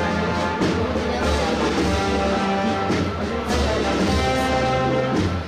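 Brass band playing a Holy Week processional march, with long sustained brass chords.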